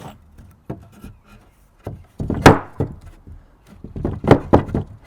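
Pieces of lumber being set in place and knocked against each other, a series of wooden clunks and rubbing, the loudest about halfway through and a quick cluster near the end.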